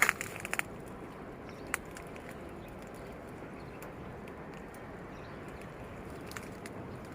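Steady outdoor background noise with a quick run of sharp clicks or knocks right at the start and a single click about two seconds in.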